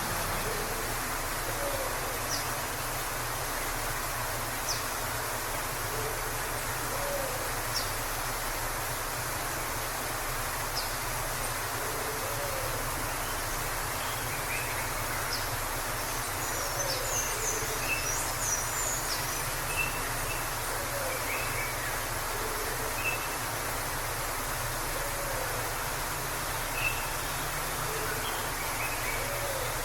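Waterfall rushing steadily, with birds calling over it: short low notes every couple of seconds and brief high chirps, busiest a little past the middle.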